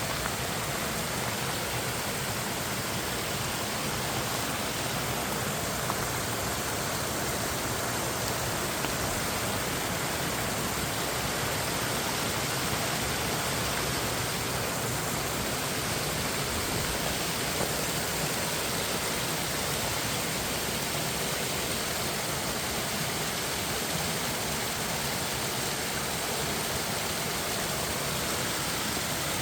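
Mountain stream rushing over rocks and small waterfalls: a steady, even roar of water that does not change.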